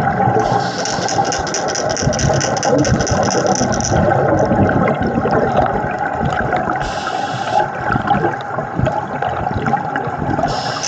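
Scuba diver breathing through a regulator underwater: a long bubbling exhalation, a short hissing inhalation about seven seconds in, then another exhalation starting near the end. Under it runs a steady low rumble.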